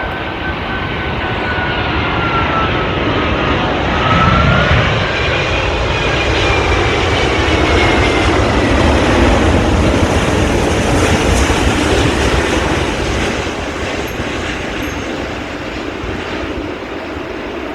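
Singapore Airlines Airbus A380's four jet engines passing on its landing approach: a loud rumble with a whining tone that falls in pitch. It swells to a peak about halfway through, then slowly fades.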